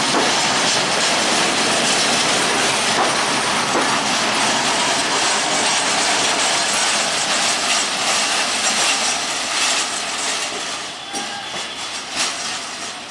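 Passenger train coaches rolling past at close range, their wheels running loudly over the rails in a dense, steady rumble and clatter. The noise fades over the last few seconds as the final coach passes and moves away.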